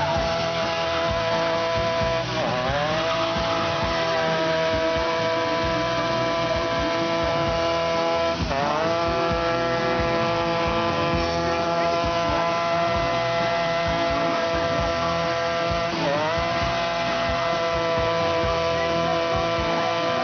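Motorcycle engine held at high revs during a burnout: a steady high-pitched drone that briefly dips and climbs back up three times.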